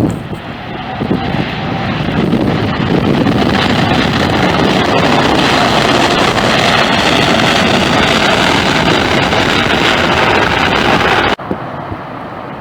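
Jet airliner passing low overhead: a loud, steady roar that builds over the first couple of seconds, holds, and then cuts off abruptly near the end.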